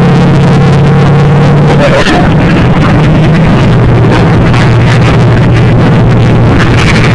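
Monster truck engine running loud and steady; its pitch drops about two seconds in, then holds.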